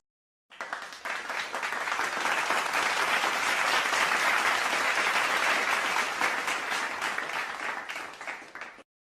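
Crowd applause, a dense patter of many hands clapping that swells up over the first second or two, holds, then fades out near the end.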